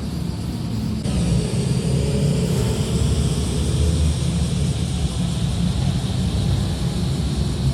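Modified car's exhaust rumbling low and steady as it drives slowly past, getting louder about a second in.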